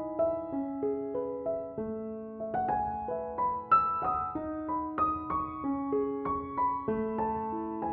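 Slow, gentle solo piano music, a soft melody over held chords.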